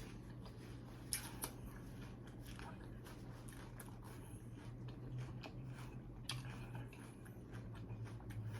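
A person chewing a cheeseburger, with scattered short mouth clicks and smacks. A steady low hum runs underneath.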